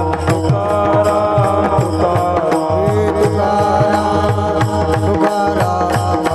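Devotional kirtan bhajan music. A pakhawaj (mridang) beats a steady rhythm with taal hand cymbals under sustained melodic tones.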